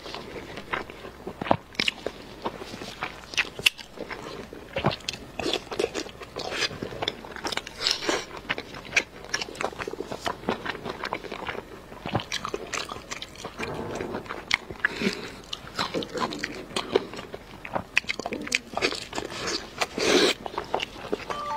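Close-miked biting and chewing of braised pork belly: a dense run of sharp, crackly mouth clicks and crunches, with a louder bite near the end.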